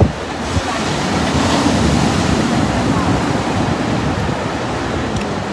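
Ocean surf breaking and washing ashore, a steady rush that swells a little about a second and a half in, with wind buffeting the microphone.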